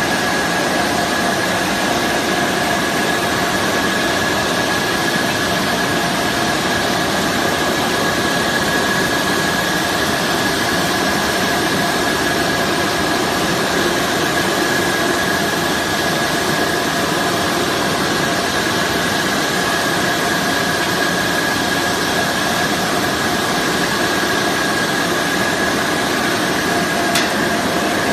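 Brush-roller washing machine for walnuts running steadily: a constant machine hum with a high whine and a hiss, and a few faint clicks near the end.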